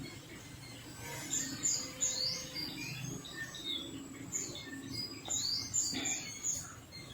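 Small birds chirping: clusters of short, high chirps and quick rising and falling notes, repeating all through.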